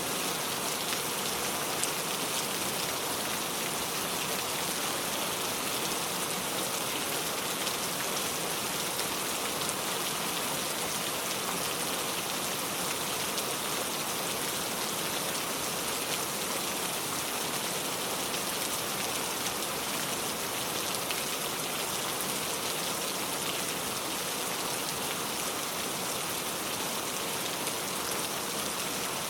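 Steady rain falling on a car, a constant hiss with fine patter of drops.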